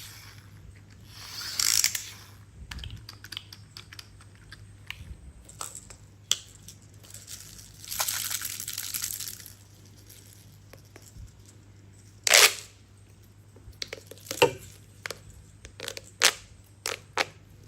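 Plastic toy pieces being handled close up: two short rustling scrapes, then a loud sharp click about two-thirds of the way through and a run of smaller clicks near the end.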